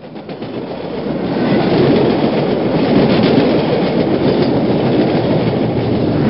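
Train running on rails: a dense rumble with wheel clatter, fading up from silence over the first couple of seconds and then holding steady.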